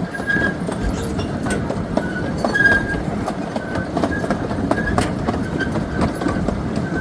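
Park excursion train running along its track, heard from aboard: a steady rumble with scattered clicks of the wheels over the rails and short high squeals that recur every second or so.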